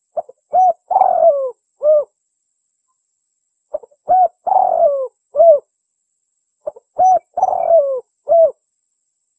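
Spotted dove (tekukur) cooing: three repeated phrases about three seconds apart. Each phrase is a few short clipped coos, then a longer coo that falls in pitch, then a final short coo.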